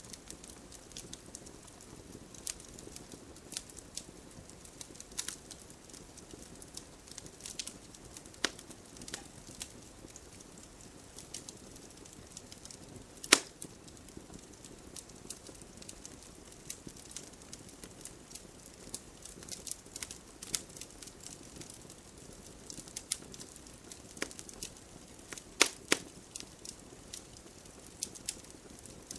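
Backyard wood campfire crackling: frequent small irregular pops and a few sharp louder snaps over a low steady hiss, the loudest snap about 13 seconds in and two more close together about 26 seconds in.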